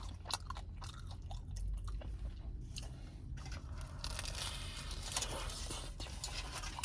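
A person chewing a mouthful of Costco combination calzone close to the microphone: wet mouth noises and irregular small clicks, busier in the second half.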